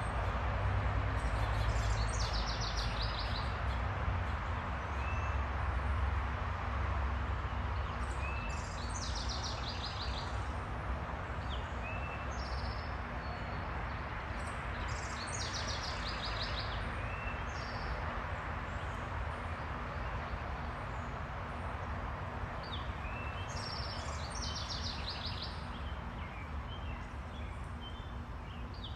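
A small songbird singing a short trilled phrase four times, with brief chirps between, over a steady low rumble of background noise.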